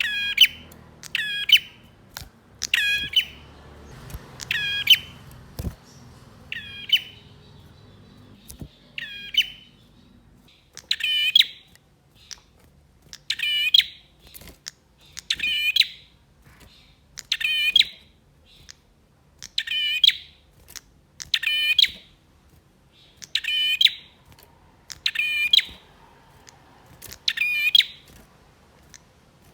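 A male prinia (prenjak) calling insistently, a long run of short, sharp call phrases repeated about once every two seconds.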